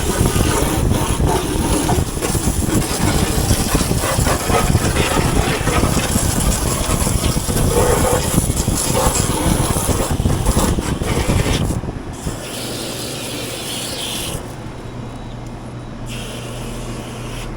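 Garden hose spraying water onto an air-conditioning condenser coil, a loud steady hiss. About twelve seconds in the spray stops, leaving a quieter steady low hum.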